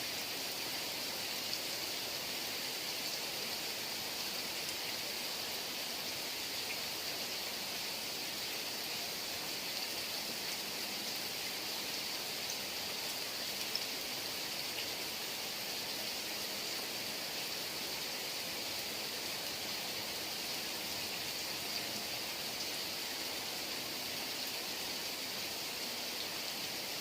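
Heavy rain falling steadily, an even hiss with a couple of faint ticks of single drops.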